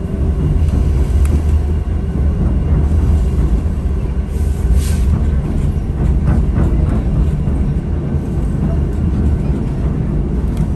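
Steady low rumble of the White Pass & Yukon Route excursion train running along the track, heard from aboard. A brief hiss comes a little under halfway through.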